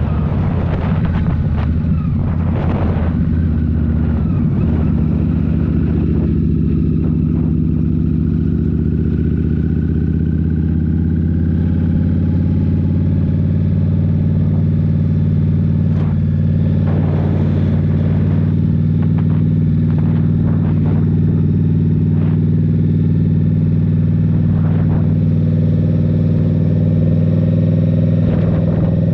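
Indian Scout Rogue's 69 cu-in liquid-cooled V-twin running steadily through a Rinehart slip-on exhaust, its pitch holding nearly level.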